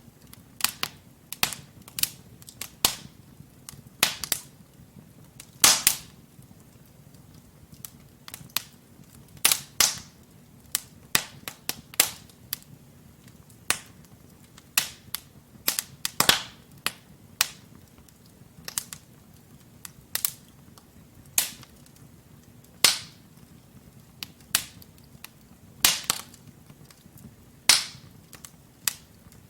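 Wood fire in a fireplace crackling: burning logs give off irregular sharp pops and snaps, a few of them loud, over a low steady rumble of flame.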